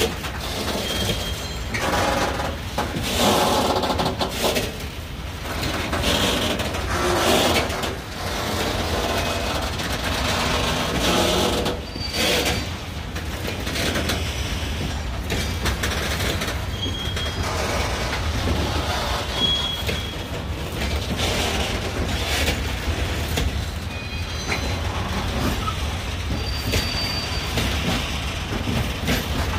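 Freight train of tank wagons rolling past: a steady low rumble of wheels on rail, with irregular knocks and clatter and a few short, thin wheel squeals.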